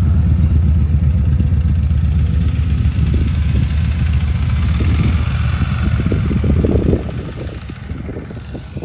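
A motor vehicle's engine running close by with a deep, steady note, then dropping away about seven seconds in.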